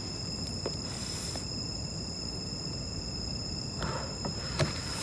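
Steady chorus of insects trilling at several constant high pitches, with a brief hiss about a second in and some rustling and clicks near the end.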